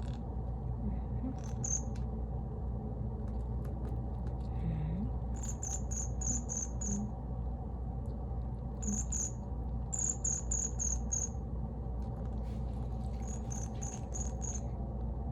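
Pet bird chirping: short high-pitched chirps in quick runs of three to five, about three a second, with pauses between the runs, over a steady low hum.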